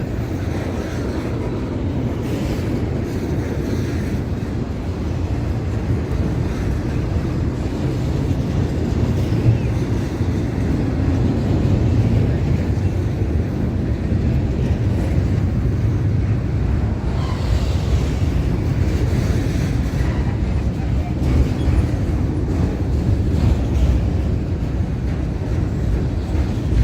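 Train rolling past with a steady, loud low rumble that grows somewhat louder in the second half.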